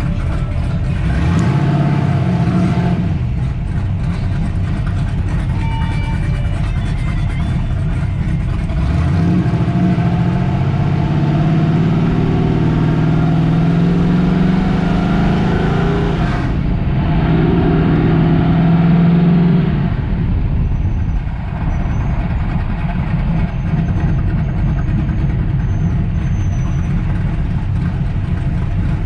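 Muscle-car engines running and accelerating, pitch rising several times as they rev and pull away.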